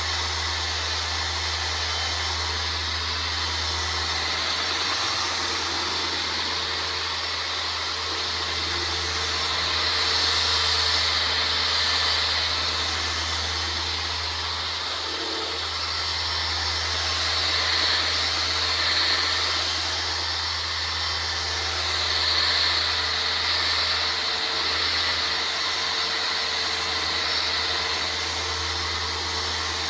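Electric power sander running steadily, a whirring hum and hiss whose loudness rises and falls every few seconds.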